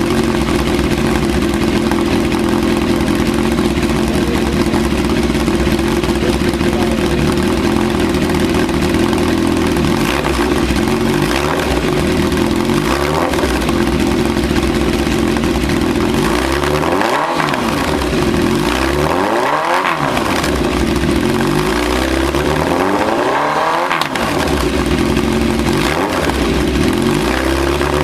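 Honda CB1000R's inline four-cylinder engine running through an open exhaust pipe. It holds a steady idle for about the first ten seconds, then is revved again and again, rising and falling every couple of seconds.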